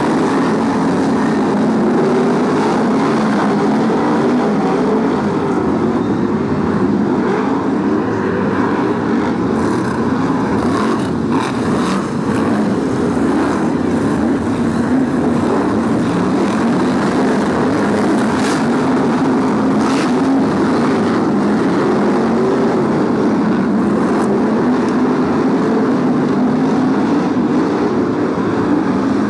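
A pack of BriSCA F1 stock cars racing, their V8 engines running hard together, the pitch swelling and falling as they lap the oval. A couple of brief sharp cracks cut through about two-thirds of the way in.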